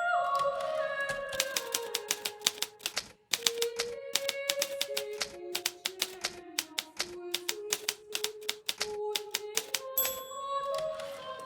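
Hermes Baby portable manual typewriter being typed on: a quick, irregular run of key strikes with a short pause about three seconds in. Soft background music of slow held notes plays underneath.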